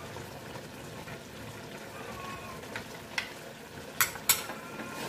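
Pork and liver sizzling steadily in a nonstick wok, with a few light utensil clicks and two sharp knocks of a utensil against the pan about four seconds in.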